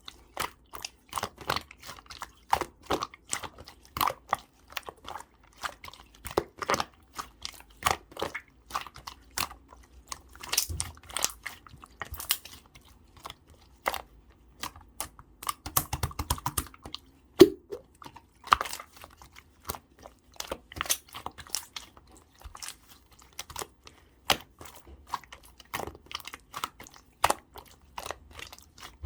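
Clear slime being squeezed and pressed by hand, giving irregular sharp clicks and pops, a few each second.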